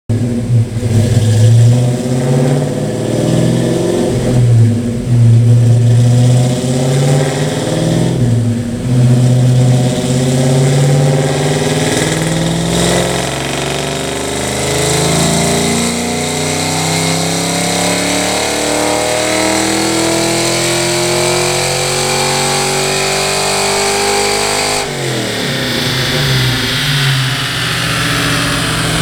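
The 5.0-litre V8 of a 1990 Mustang GT fitted with a Trick Flow top-end kit runs on a chassis dyno. Its revs rise and fall a few times, then climb steadily through one long dyno pull. Near the end the throttle closes suddenly and the revs fall away.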